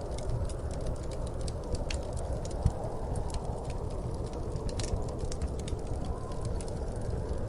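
Wood fire crackling in a fireplace: many small irregular pops over a steady low rumble of the flames, with one louder pop a little under three seconds in.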